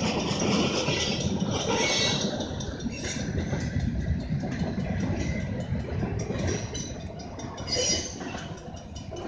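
Freight cars rolling past at a grade crossing: a steady rumble with wheels clattering over the rails, and a brief higher screech about two seconds in and again near the end.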